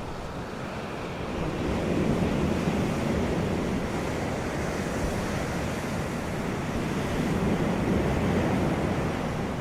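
Wind blowing, a steady rushing noise that swells in gusts about two seconds in and again near the end.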